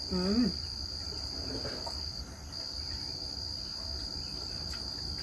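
Insects trilling in a steady, high-pitched chorus that breaks off briefly about two seconds in, then resumes.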